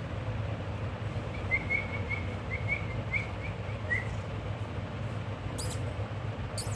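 Pet parrots chirping softly: a quick run of about nine short chirps in the first half, then a few sharp, high squeaks near the end, over a steady low hum.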